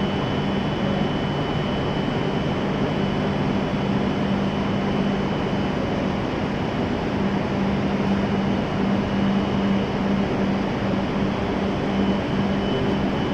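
Steady hum of a Shinkansen train standing at the platform after arrival, its on-board equipment running with a low hum and a faint high whine over even background noise.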